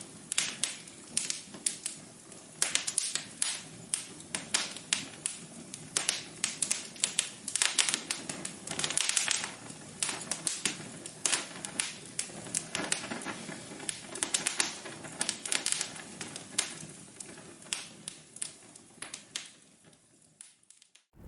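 Wood fire crackling in a fireplace: irregular sharp pops and snaps over a soft hiss. The crackling fades away near the end.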